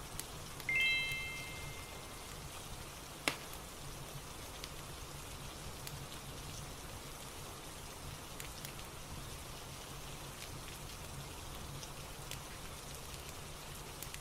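Steady rain ambience with scattered fireplace crackles. About a second in, a short chime of several bright tones rings out and fades, the focus timer's signal that 25 minutes are left.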